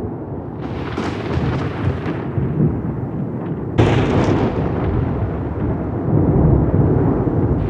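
Thunder rumbling continuously, with a crackling peal about half a second in and a sudden sharp thunderclap a little before the midpoint, its rumble swelling again near the end.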